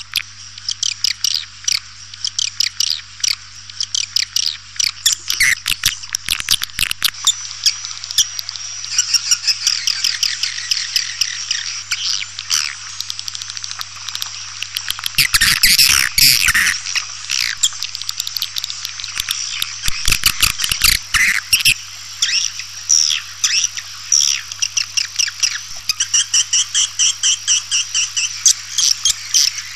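Swiftlet lure call: a dense chorus of swiftlets twittering in rapid, high chirps and clicks, repeating without pause.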